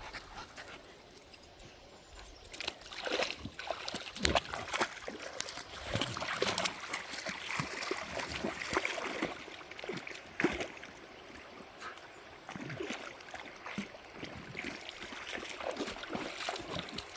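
Dogs wading in a shallow river, the water sloshing and splashing irregularly around their legs over the sound of the flowing stream. The splashing starts about two seconds in.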